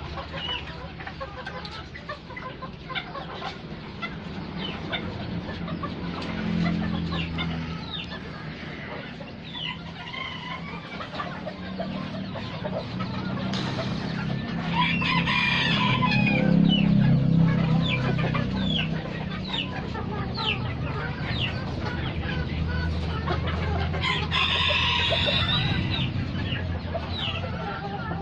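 Bantam chickens (ayam kate) clucking with many short, high peeping chirps, and a rooster crowing about halfway through and again near the end.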